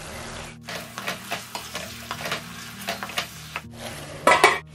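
Chicken pieces frying in a stainless steel kadhai, a steady sizzle with scraping clicks of stirring. A louder clank near the end as the steel lid goes back on the pan.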